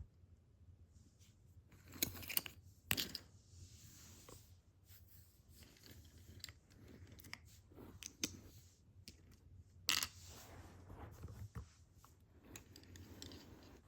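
Small hard objects being handled: scattered clicks, taps and short scrapes, with sharper knocks about 2, 3 and 10 seconds in.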